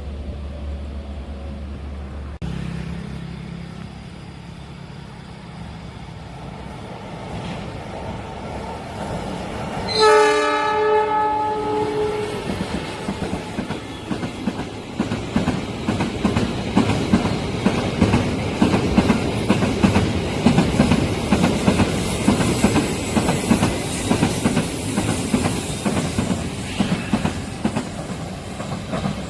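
A train horn sounds one blast of about two seconds, a third of the way in. Then the train passes close by with a steady clickety-clack of wheels over the rails that grows louder.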